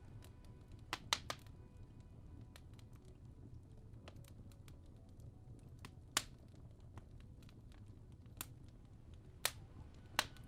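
Wood fire crackling in a fireplace: scattered sharp pops and snaps, a few much louder than the rest, over a low steady rumble, with soft music faintly underneath.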